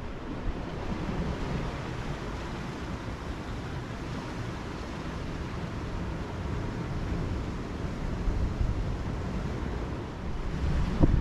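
Strong wind buffeting the microphone over the wash of ocean surf, with heavier gusts near the end.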